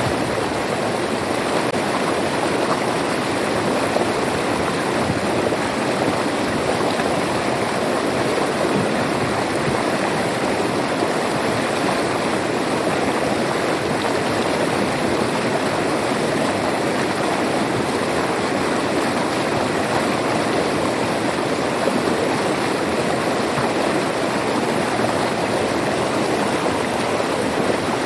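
River water flowing and rushing over rocks, steady and unbroken.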